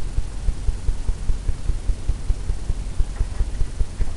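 Soft, irregular low thuds, several a second, from paint strokes against a stretched canvas as the mountains are worked in wet-on-wet oil paint.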